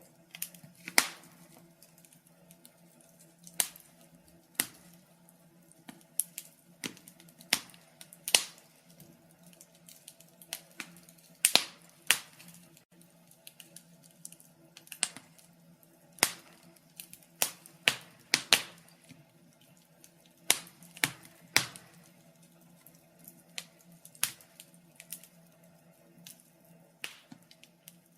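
Wood fire crackling: irregular sharp pops and snaps, a few each second, some much louder than the rest, over a faint steady hum.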